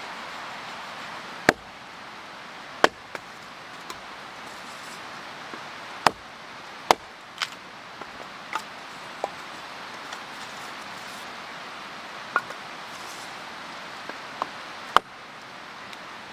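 Firewood being chopped or split: about a dozen sharp, irregular chopping knocks, the loudest several seconds apart, over a steady background hiss.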